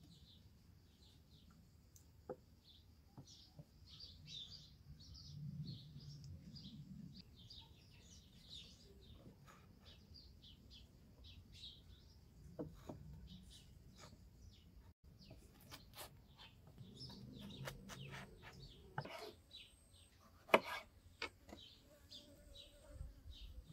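Faint bird chirping, short repeated chirps all through, with a few sharp knocks and clicks now and then.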